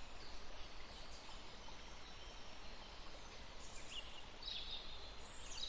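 Faint outdoor ambience: a steady low hiss, with a few short high bird chirps about four to five seconds in.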